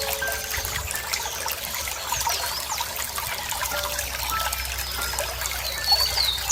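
Running water trickling and splashing steadily. Songbirds give thin, faint whistles throughout, and a couple of quick falling chirps come near the end.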